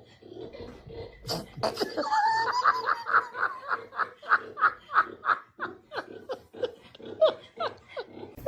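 Someone laughing: a long run of rhythmic laughs, about three a second, starting about two seconds in and trailing off near the end.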